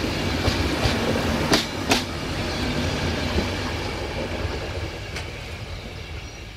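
Passenger train rolling past, its wheels clacking over rail joints with two sharp clacks about a second and a half and two seconds in, over a steady low rumble that fades away toward the end.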